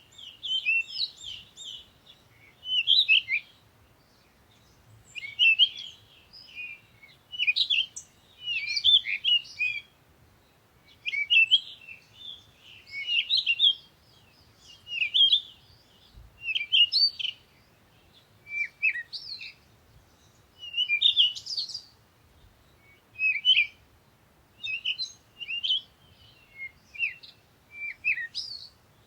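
Songbirds singing in a forest: short, high-pitched chirping phrases repeating every second or two, with brief gaps between them.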